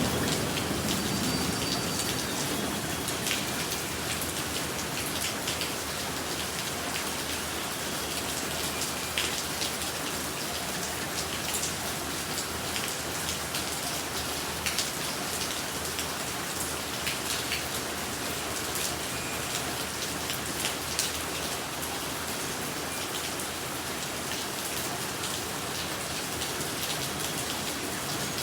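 Steady rain falling on surfaces, an even hiss with many scattered drop ticks.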